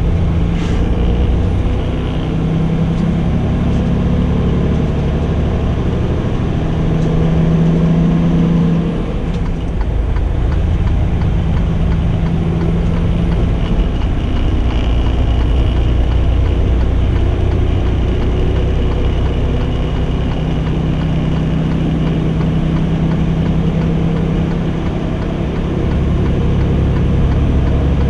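Semi-truck's diesel engine and road noise heard from inside the cab while driving, a steady low drone whose engine note swells and eases slightly.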